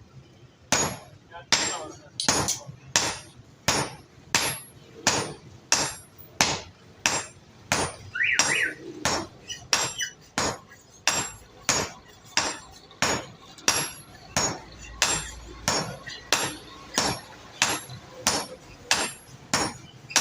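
Blacksmith's hammer striking an old hatchet head on an anvil during forging, a steady rhythm of about four sharp blows every three seconds.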